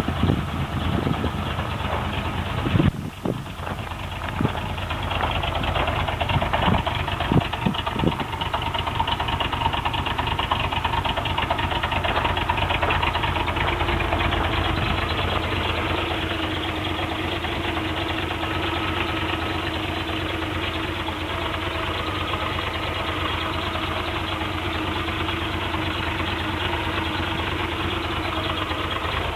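1984 Toyota pickup's 22R four-cylinder engine running through a Cherry Bomb muffler, uneven for the first several seconds with a brief dip about three seconds in, then settling into a steady idle.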